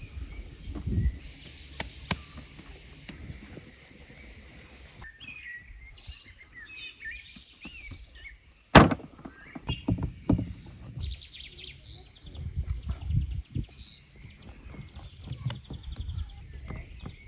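Birds chirping and twittering, with a scatter of knocks and dull thuds; the loudest is a single sharp knock about nine seconds in.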